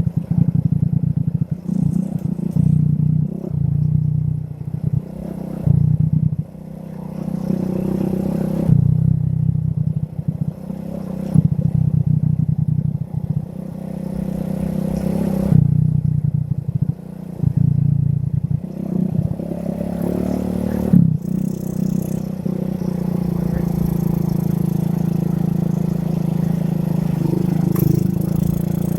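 Small motorcycle engine, a Yamaha Vega R, running under way, its level rising and falling with the throttle and then holding steadier near the end. It is heard muffled through a phone in a shirt pocket, with clothing rubbing and wind over the microphone.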